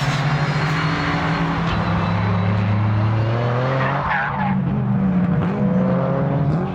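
Modified time-attack race car engines running on the circuit: a steady engine note that drops away a little over three seconds in as another rises. There is a brief squeal, likely tyres, about four seconds in.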